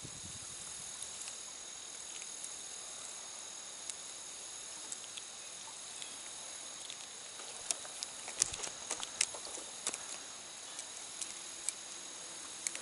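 Steady high-pitched drone of late-summer insects such as crickets over faint outdoor hiss. A cluster of sharp small clicks and ticks comes about eight seconds in.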